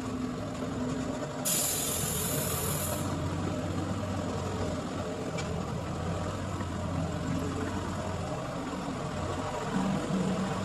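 Car engine running steadily at low revs, with a short burst of hiss starting about a second and a half in and lasting about a second and a half.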